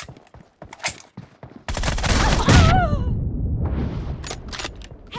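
Video game gunfire: scattered single shots at first, then a sudden loud, dense barrage of firing that begins about a second and a half in and runs on.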